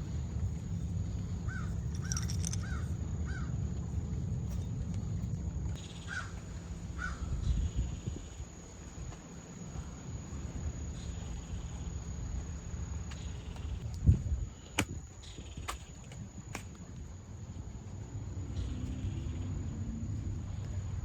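A bird calling outdoors: a quick run of four short calls, then two more a few seconds later, over a steady low rumble. A few sharp knocks come near the middle.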